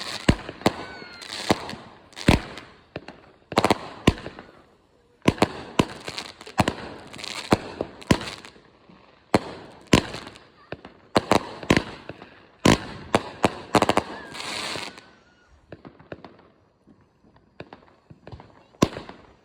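Fused consumer firework cakes firing a rapid, irregular string of shots, with sharp launch bangs and aerial breaks one or two a second. The shots bunch up about three-quarters of the way through, thin out for a few seconds, then pick up again near the end.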